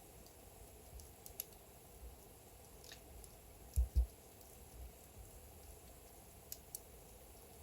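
Burning logs in a fireplace crackling faintly, with a few scattered small pops and clicks. Two low thumps close together about four seconds in are the loudest sounds.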